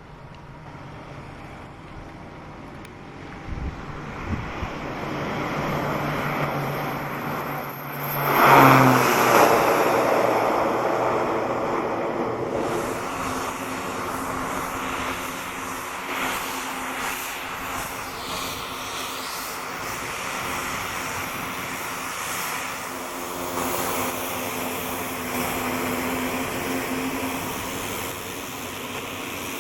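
Cessna Conquest II twin turboprop, with Garrett TPE331 engines, passing close by. The engine sound builds to its loudest about eight seconds in, its pitch falling sharply as the aircraft goes past, then settles into a steadier turboprop drone that slowly fades.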